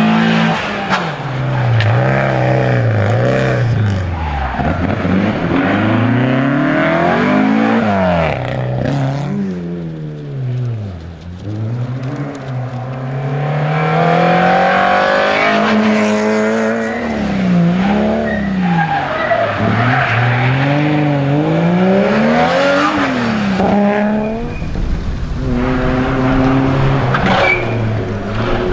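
Rally car engines being driven hard, the note climbing and dropping again and again through gear changes and lifts on a special stage. Near the end a steadier, lower engine note comes in with rumble.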